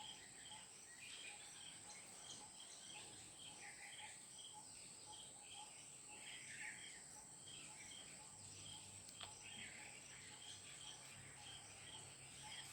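Faint birdsong: several birds giving short, evenly repeated high chirps and occasional brief warbling calls, over a steady high-pitched insect-like buzz.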